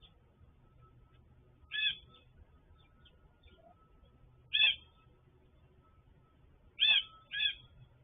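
A bird at a backyard feeder calling four times in short, loud single notes. The last two calls come close together.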